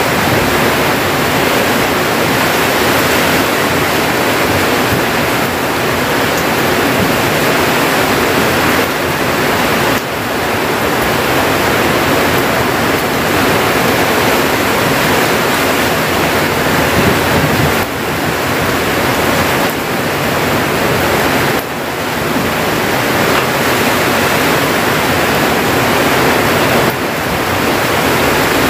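Heavy storm rain pouring down steadily on and around a wooden hut, a dense unbroken hiss.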